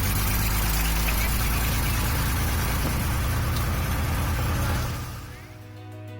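Cessna 172's six-cylinder piston engine and propeller running steadily under a broad rushing noise. It fades out from about five seconds in as music begins.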